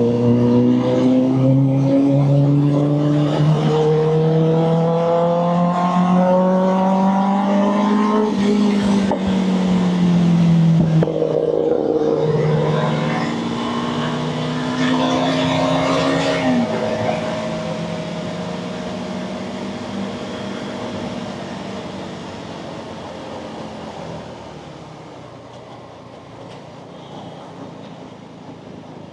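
Motorcycle engine accelerating hard through the gears, its pitch climbing in steps for about eight seconds, dropping, climbing again, then easing off as the sound fades away over the last ten seconds.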